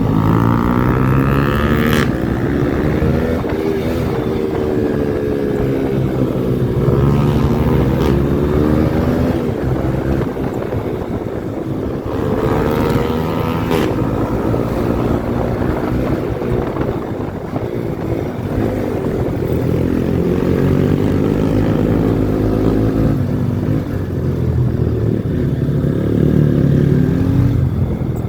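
Yamaha R15 V4's 155 cc single-cylinder engine breathing through an aftermarket exhaust while ridden, its pitch repeatedly rising and falling as the throttle is opened and eased off.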